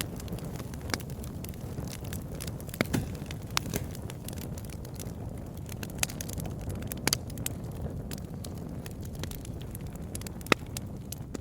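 Campfire burning, wood crackling with irregular sharp pops over a steady low rumble of the flames, one pop standing out louder near the end.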